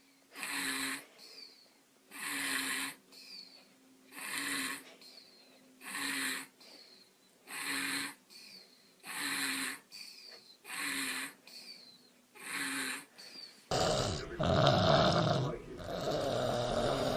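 A baby snoring in regular, noisy breaths about every second and a half. About 14 seconds in, this cuts to a louder sound like a voice.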